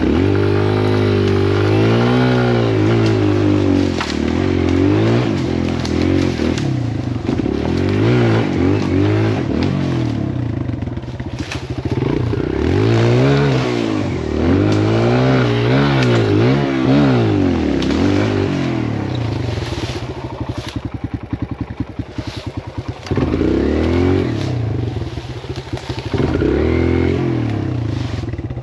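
Kawasaki KLX140L dirt bike's single-cylinder four-stroke engine revving up and down repeatedly while riding a woods trail, with the throttle easing off briefly about two-thirds of the way in.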